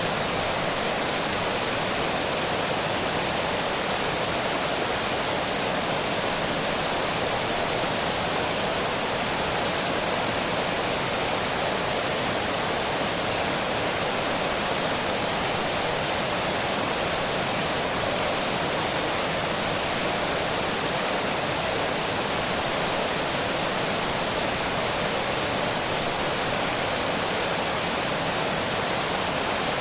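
Water pouring over a small dam: a steady, unbroken rush of falling water.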